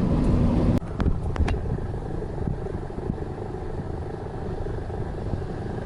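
Low engine-like vehicle rumble with a steady hum, which cuts off abruptly under a second in to a quieter low rumble with a few sharp clicks.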